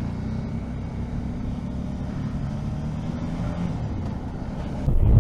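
Motorcycle engine running steadily at cruising speed. Near the end, loud wind rush on the microphone comes in suddenly.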